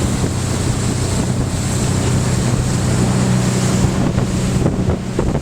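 Boat's engine running steadily under way, a low even hum, with wind buffeting the microphone and the rush of water and waves around the hull.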